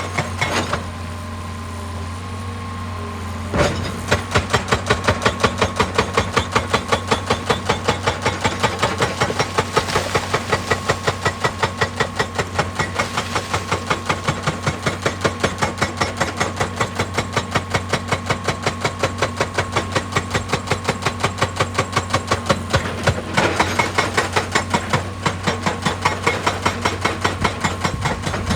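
Excavator-mounted hydraulic breaker hammering rock in a fast, even rhythm of several blows a second over the excavator's steady engine drone. The hammering stops briefly just after the start, leaving only the engine running, then starts again.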